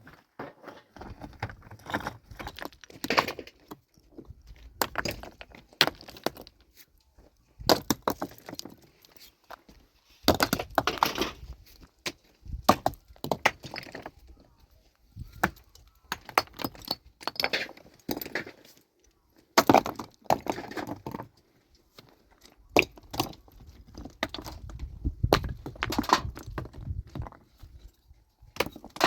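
Loose stones knocking and clattering against each other in irregular clusters as rocks are moved by hand.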